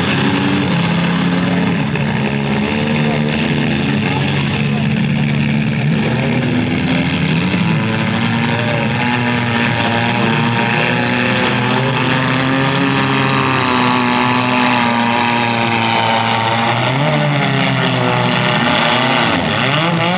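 Several compact cars' engines running and revving at once in a demolition derby, their pitches rising and falling and overlapping.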